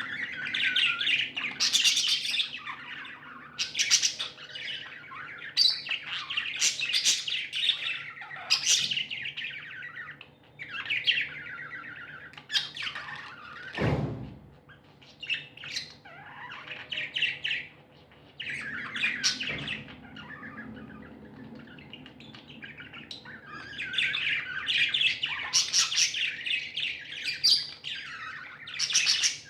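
Budgerigars chirping in rapid bursts of chatter. The chatter eases for a few seconds past the middle, then picks up again.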